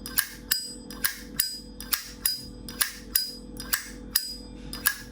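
Vintage 1980 high-polish chrome Zippo lighter's lid flicked open and snapped shut again and again: sharp metallic clicks, about two to three a second, each with a brief ring.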